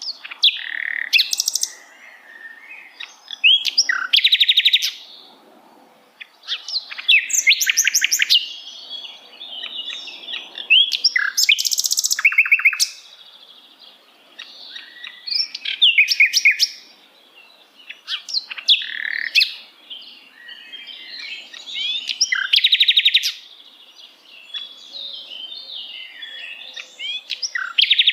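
Common nightingale singing: a string of varied phrases a few seconds apart, each built of fast repeated notes and trills, some pitched very high, with short pauses between.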